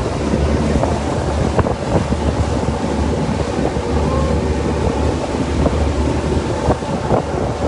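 Wind buffeting the microphone over a low, steady engine hum and the wash of water, as heard aboard a moving boat, with scattered small knocks.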